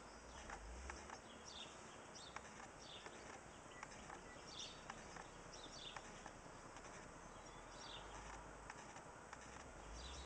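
Faint outdoor ambience: a small bird calling in short, high notes that fall in pitch, repeated every second or so, with scattered light clicks and an occasional low rumble.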